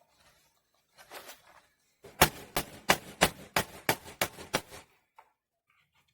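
A hammer striking, about eight quick, even blows at roughly three a second, typical of driving a nail.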